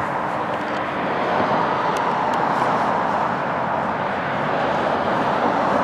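Steady rushing noise of passing road traffic, swelling slightly about a second in.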